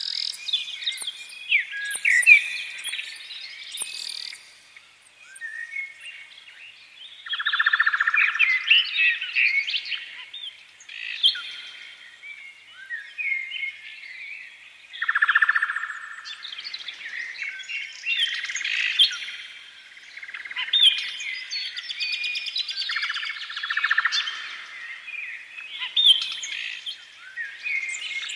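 Many birds chirping and singing at once, a dense chorus of short notes that swells louder in several waves.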